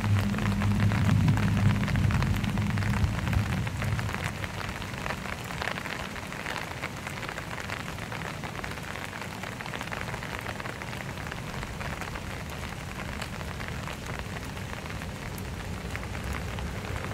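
Rain falling on wet pavement: a steady, dense patter of drops. A low hum fades out over the first three seconds or so.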